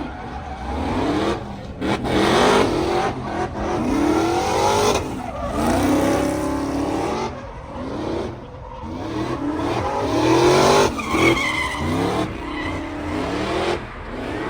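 Car engines revving up and falling back again and again, loud, several rises and drops in pitch one after another.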